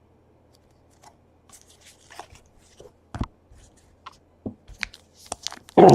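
Trading cards and card-pack wrappers being handled on a table: scattered small clicks and rustles, one sharper knock about three seconds in, and louder rustling near the end.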